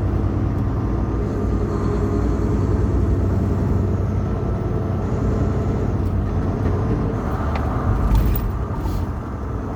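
Semi truck's diesel engine and road noise heard from inside the cab while driving at highway speed, a steady rumble.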